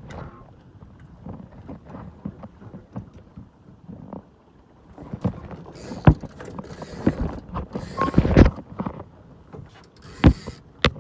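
Knocks, clatter and rustling on a small sailboat as the sailor shifts across it to the other side, likely during a tack. Scattered knocks at first, then a busier run of sharp knocks and short rushes of noise from about halfway through.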